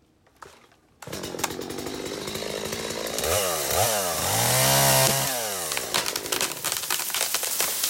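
Stihl MS250 two-stroke chainsaw cutting through the tab of a plunge-cut tree. It comes in abruptly about a second in and its engine pitch rises and falls twice as it cuts. Near the end comes a run of sharp cracks as the tree breaks over.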